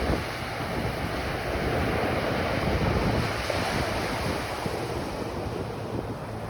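Ocean surf washing onto a beach, a steady rush that swells and eases, with wind buffeting the microphone in a low rumble.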